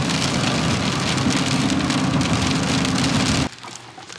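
Heavy rain hitting a moving vehicle's windshield, with steady road and engine noise underneath, while driving on a wet highway. It cuts off abruptly about three and a half seconds in.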